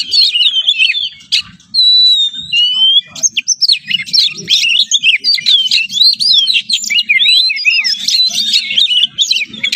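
Songbird singing loudly and without a break. It opens with a few drawn-out whistles, then about three seconds in breaks into a fast, varied run of quick rising and falling notes. A faint low hum sits underneath.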